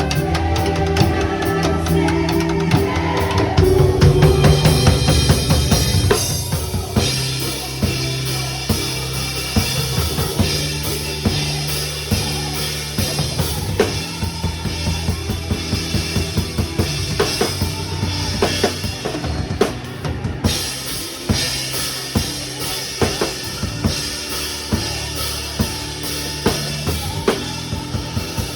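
Drum kit played along to a recorded worship song, with kick and snare hits over the backing track's bass line.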